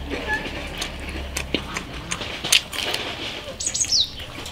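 Close-up eating sounds: wet chewing and lip-smacking on grilled lamb, a scatter of short sharp clicks. Near the end there is a brief high chirp that falls in pitch.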